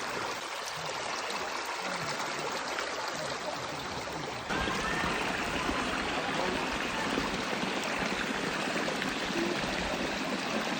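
Rain falling heavily during a hail storm, a steady rushing hiss with no pattern in it; it steps up abruptly louder about four and a half seconds in.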